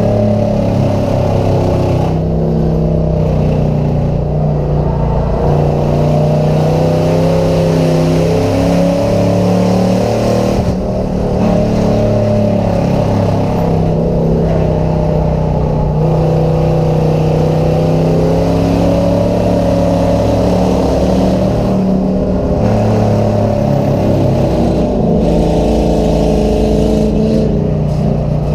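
Several race car engines running hard at once, their pitch rising and falling slowly as they accelerate and ease off around the track.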